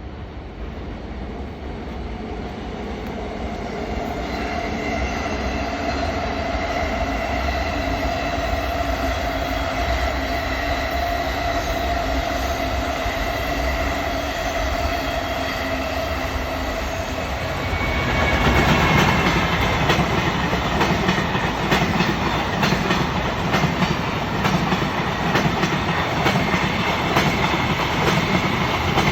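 JR Freight EF210 electric locomotive approaching with a steady whine from its inverter-driven traction motors, growing louder. About two-thirds of the way through it passes and the Koki container wagons follow, their wheels clicking over the rail joints in a steady rhythm.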